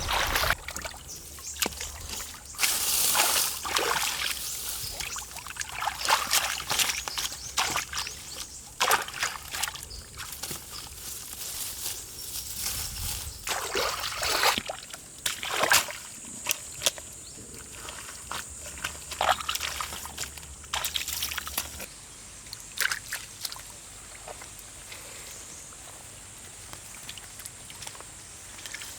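Shallow water sloshing and splashing in irregular bursts. A thin, steady high tone comes in about halfway through.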